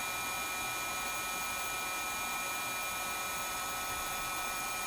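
Heat gun blowing steadily, a constant whooshing hiss with a faint steady whine, used to soften the adhesive holding the phone's parts.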